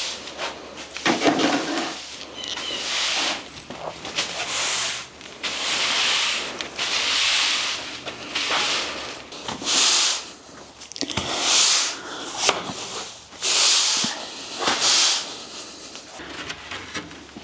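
A run of short rubbing and scraping strokes, one every second or so, with a few sharp knocks, as boards and supplies are handled and moved.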